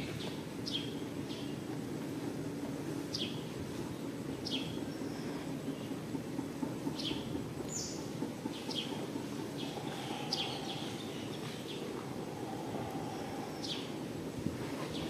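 Wild birds giving short, high chirps that fall in pitch, every second or two, over a steady low background noise.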